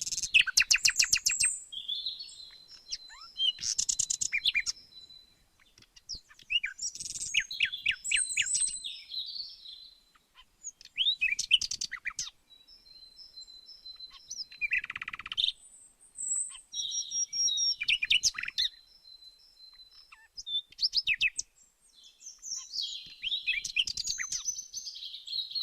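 Songbirds singing in short phrases of rapid high chirps and trills, with a few held whistled notes, each phrase a second or two long with brief silent pauses between.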